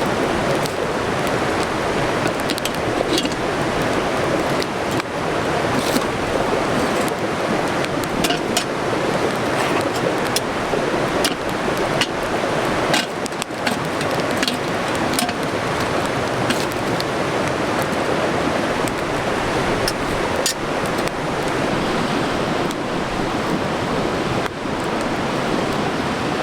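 A wood fire burning in a fire pit: a steady hiss with frequent sharp crackles and pops scattered irregularly through it.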